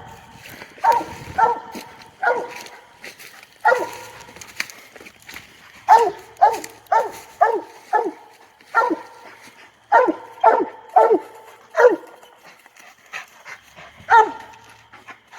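Raccoon-hunting dog barking treed at the base of a tree: short, loud barks in quick runs about half a second apart, with a brief pause near the end. It is the tree bark that tells the hunter the dog has a raccoon up the tree.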